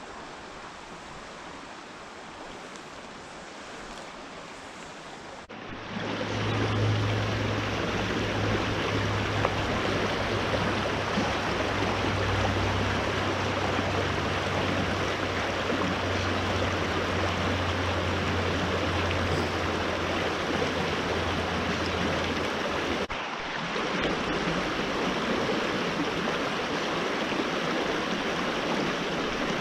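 Creek water rushing steadily, as a small stream running through its pool; the rush jumps louder about five seconds in.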